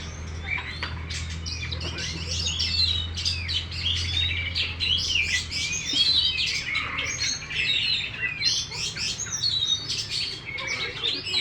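Oriental magpie-robin singing a fast, varied song of rapid chirps and whistles without a break, with a low steady hum underneath that fades out about halfway through.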